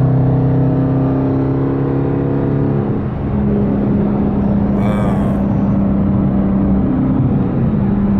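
Dodge Hemi V8 engine running steadily under way, heard from inside the car. About three seconds in the level dips briefly and the engine settles to a different steady note.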